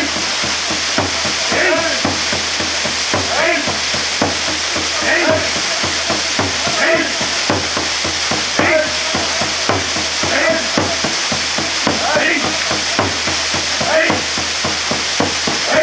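Waterfall pouring steadily: a loud, constant rushing hiss of falling water.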